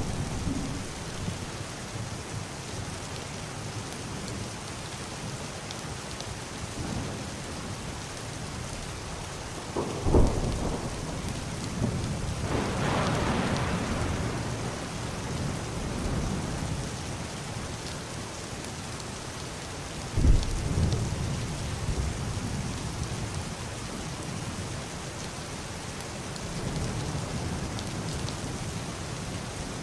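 Heavy rain beating steadily on a wooden roof and a glass window, with thunder: two sudden claps about a third and two-thirds of the way in, and a long rolling rumble between them.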